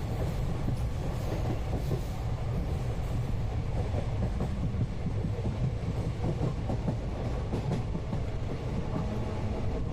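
Inside an Indian Railways passenger coach on the move: the steady rumble of the running train, with light rattling and clatter from the wheels and coach throughout.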